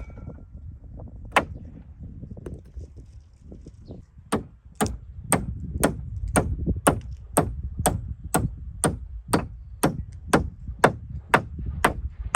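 A single hard strike of a hand tool on wood, then, after a pause, a steady run of about sixteen strikes at roughly two a second, each sharp with a short ring.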